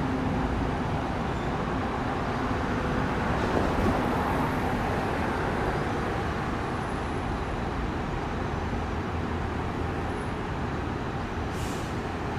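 Steady street traffic noise with vehicle engines running, and a short hiss near the end.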